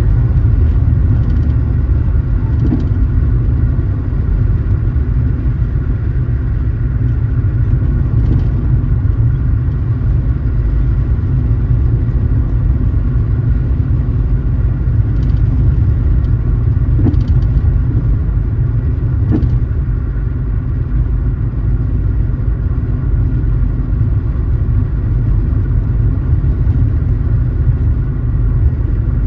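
Car driving at steady speed: a continuous low rumble of road and engine noise, with a few faint ticks now and then.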